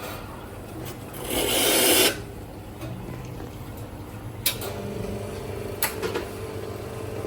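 A loud hiss that swells for about a second. After a click, a coffee grinder's motor starts and runs with a steady hum, with a few light clicks, as the reassembled grinder is run.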